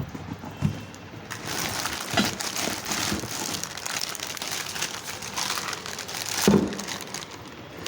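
Crinkling and rustling of plastic packaging as exhaust parts are handled, with a single knock about six and a half seconds in.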